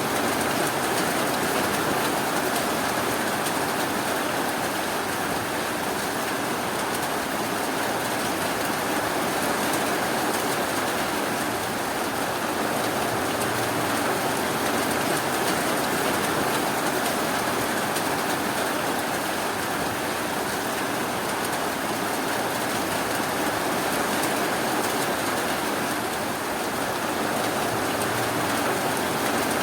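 Steady rainfall, an even hiss with no breaks, drops or thunder.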